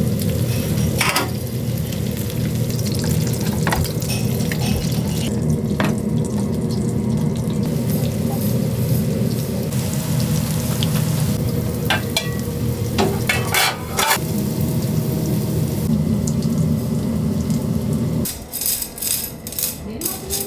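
Hamburger steak patties sizzling as they fry in a frying pan, over a steady low hum, with a few sharp metal clinks of pan and lid. Near the end this stops suddenly and gives way to light, rapid clinking of chopsticks being handled.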